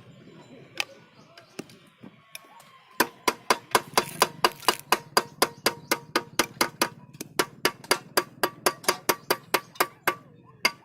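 Rapid, even hammer blows on the metal of a motorcycle silencer, about four a second, each ringing with a metallic tone; the hammering starts about three seconds in.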